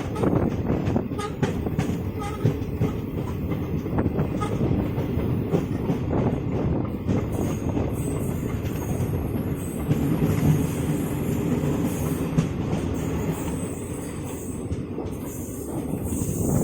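Kanchankanya Express coach running along the track: a steady rumble of wheels on the rails with a scatter of clicks and clatter.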